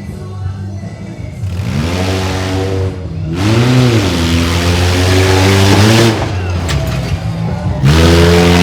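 Mini monster truck engine revving up and falling back several times in short surges. The announcer takes it for a transmission problem, with the truck not pulling in first gear.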